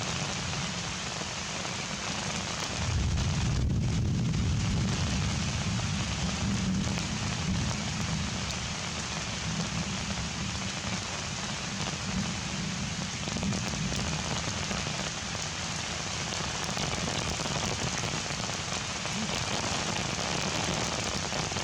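Heavy rain falling steadily, with a deeper, louder swell for a couple of seconds about three seconds in.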